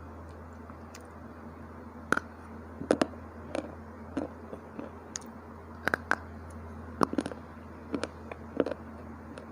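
Dry slate bar chips being bitten and crunched close to the microphone: sharp, irregular crunches, about one or two a second, starting about two seconds in, over a steady low hum.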